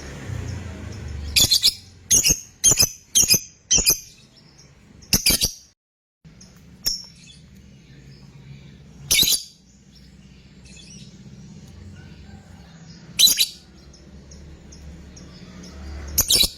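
A fighter-type lovebird giving short, shrill calls: a quick run of about six in the first five seconds, then single calls several seconds apart.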